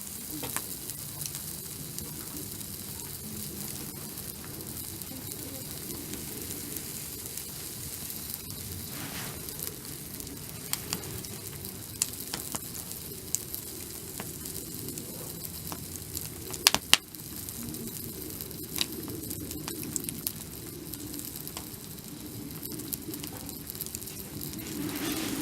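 Food sizzling on a barbecue grill: a steady hiss with scattered sharp pops and clicks, the loudest pair about 17 seconds in.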